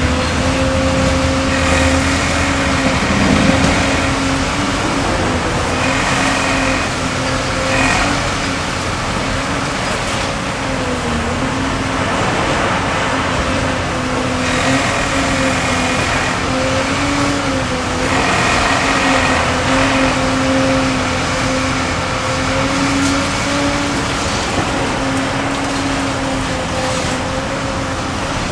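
Sennebogen 870E high-reach demolition excavator running steadily, its diesel engine speed wavering a little with the hydraulic load, and a higher whine that comes and goes several times as the hydraulics work.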